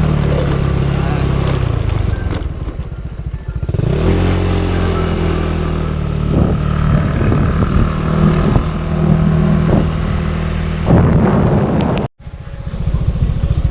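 Motorcycle engine running under way: it eases off over the first couple of seconds, picks up sharply about four seconds in, then holds a steady speed. The sound cuts out for a moment near the end.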